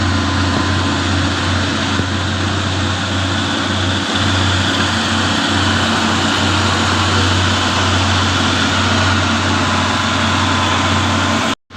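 Loaded box truck's diesel engine labouring up a steep hill, a steady low drone under heavy load. The sound cuts out abruptly for an instant near the end.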